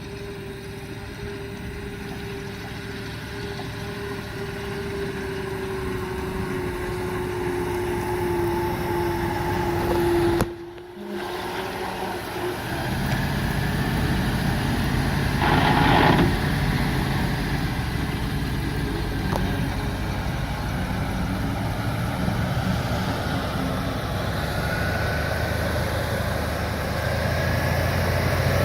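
The engine of a 1976 International grain truck running steadily and gradually getting louder. There is a brief break about ten seconds in, after which it is fuller and deeper, and a short burst of noise comes around the middle.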